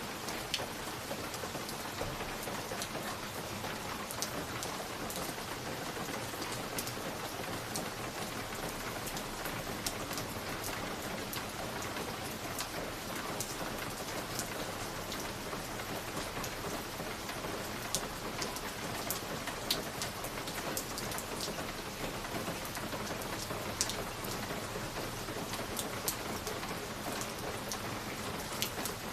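Wood fire crackling in a fireplace: a steady soft hiss with irregular sharp pops and snaps scattered throughout.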